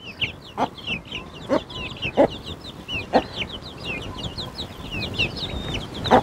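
A brood of one-month-old Australorp and Sultan chicks peeping continuously, many short high cheeps overlapping. Lower clucks from the mother hen come in every second or so.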